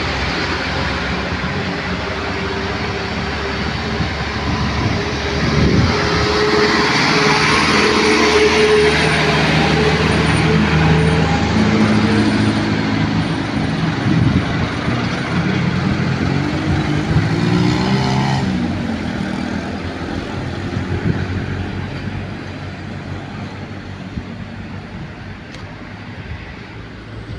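Truck engines and road traffic passing, with the engine pitch rising as one revs about two-thirds of the way through. The noise fades toward the end.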